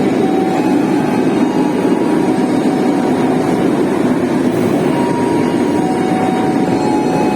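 Passenger train moving along the rails past the platform, a steady rumble of wheels and carriages with faint thin squeals above it, as the train on track 2 departs.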